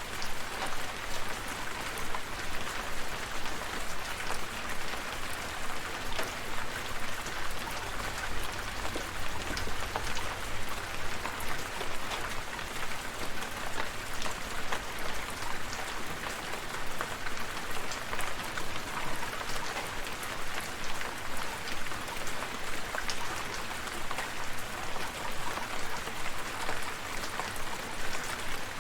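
Steady rain falling, with many individual drops ticking sharply over a constant hiss and a low rumble underneath.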